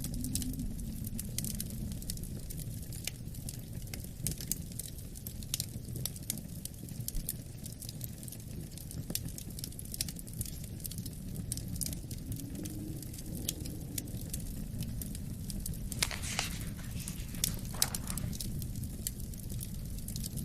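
Wood fire crackling in a fireplace, with scattered sharp pops and two louder ones a few seconds before the end, over a steady low rumble of wind.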